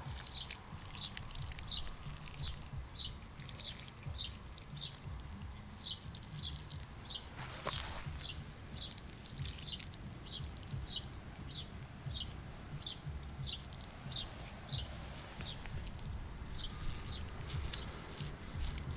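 A small songbird repeating one short, high chirp over and over, about two a second, with a brief pause about three-quarters of the way through. A single brief rustle comes about eight seconds in.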